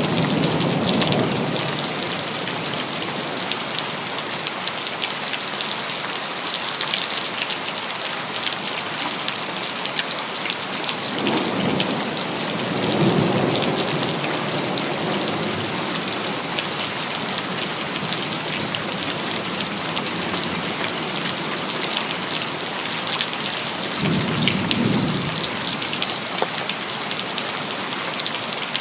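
Steady rain, a dense hiss of falling drops with fine patter. Thunder rumbles low three times: near the start, about halfway through, and again a few seconds from the end.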